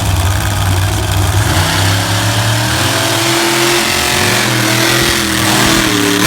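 Monster truck engine running low, then revving up about two seconds in and holding at high revs.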